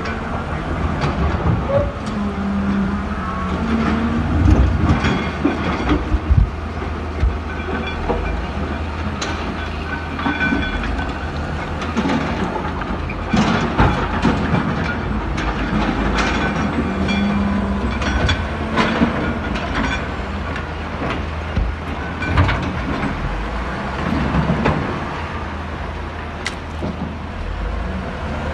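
Heavy diesel earthmoving machinery running steadily at work, with repeated sharp metallic clanks and knocks and brief high squeals of steel.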